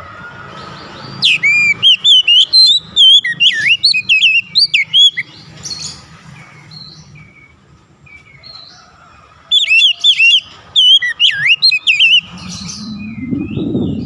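Oriental magpie-robin (kacer) singing two loud runs of quick, varied whistled notes: one starts about a second in and lasts about four seconds, the other starts about halfway through, with softer calls between them. A low muffled noise comes in near the end.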